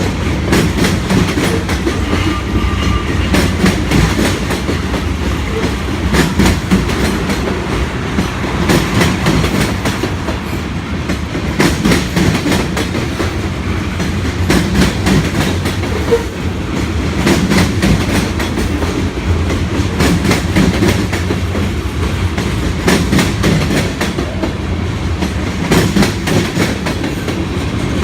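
Freight cars of a mixed manifest train rolling past, a steady rumble of wheels on rail with repeated clicks and clacks as the wheels pass over rail joints.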